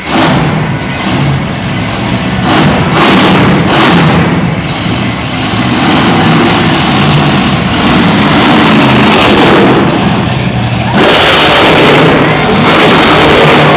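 Monster truck engine revving hard, surging again and again, and loudest over the last few seconds.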